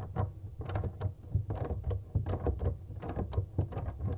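A wrench working the old faucet's crusty spout nut under a bathroom sink, giving a quick, irregular run of scraping, clunking and rattling strokes.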